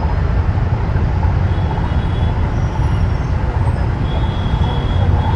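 Steady low rumble of wind and road noise from a motorcycle riding through city traffic.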